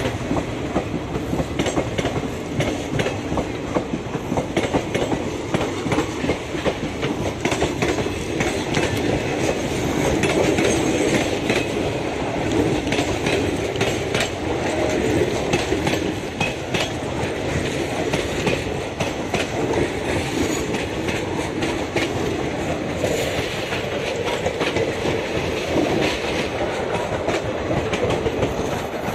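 Indian Railways passenger coaches rolling past close by, their wheels clattering over the points in a continuous rumble with frequent sharp clicks.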